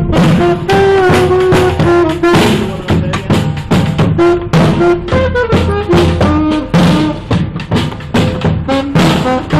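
Live street brass band playing: horns carry a moving melody over a busy beat of bass drum and snare.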